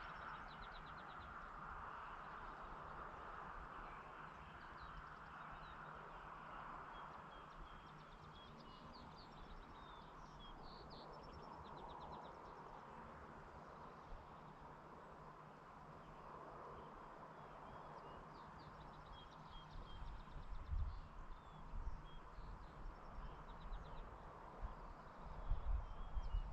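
Small birds chirping and trilling on and off over a soft, steady outdoor hush. Low rumbles come in about twenty seconds in and again near the end.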